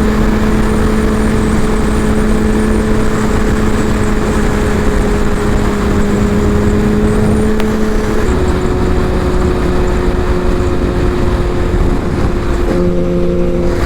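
Sportbike engine running steadily at freeway cruising speed under heavy wind rush. Its note drops to a lower steady pitch about eight seconds in and shifts once more near the end.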